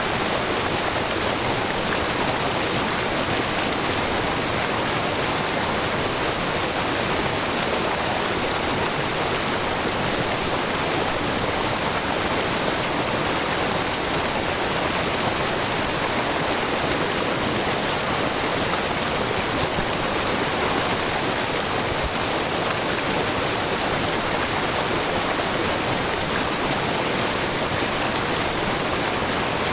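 A wide, low waterfall of spring water running off a rock face in many thin falls, making a steady, even rush of water.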